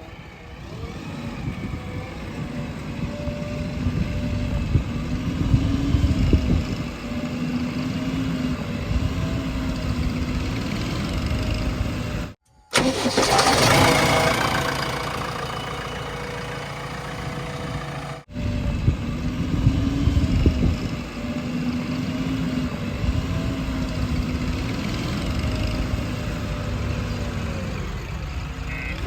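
Heavy diesel engines of earthmoving machinery running and working, the engine note rising and falling under load. The sound cuts out briefly twice, and in between it is a harsher, brighter engine sound.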